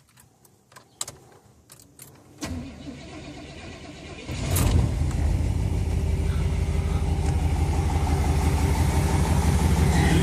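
A few light clicks, then a 1990 Chevrolet 4x4 pickup's engine cranks briefly and catches about four seconds in, settling into a steady idle. It starts right up after sitting unused for about a week.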